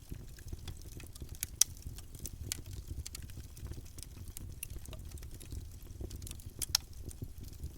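Campfire burning, with a steady low rumble of flames and scattered sharp crackles and pops of wood, two louder pops a little over a second in and near the end.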